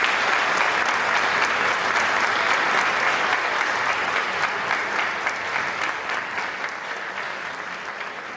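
Audience applauding, the clapping thinning and fading over the last few seconds.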